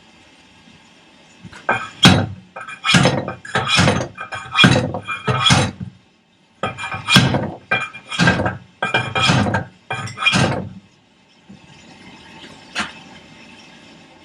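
Hammer blows on steel, about two a second in two runs with a short break between them, each a sharp clink with a little ring. The hammer is driving a tight-fitting part of a 1955 Fordson Major's bull pinion assembly into place.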